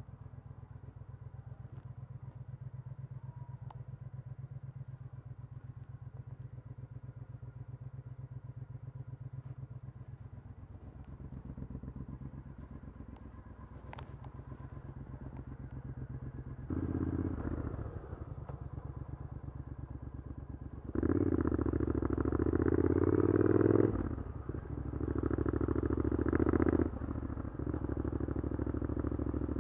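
Triumph Scrambler 900's parallel-twin engine through an Arrow aftermarket exhaust, idling steadily for about the first sixteen seconds. It then gets louder as the throttle opens and the bike pulls away, the engine note rising as it revs up and dropping suddenly at gear changes, twice in the last few seconds.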